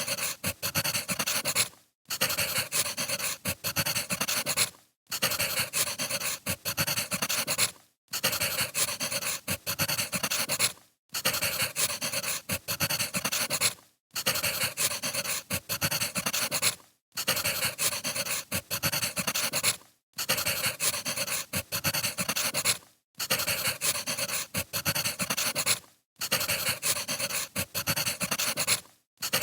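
Crackling wood fire played as a short looped recording: dense crackles and pops that drop out briefly about every three seconds.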